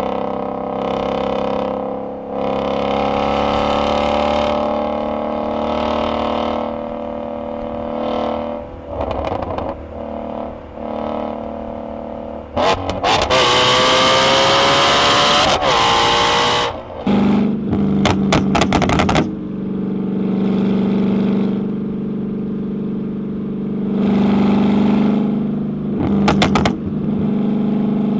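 Performance car engines running and revving, with a hard acceleration about halfway through whose pitch climbs steadily. Two short strings of sharp pops follow later.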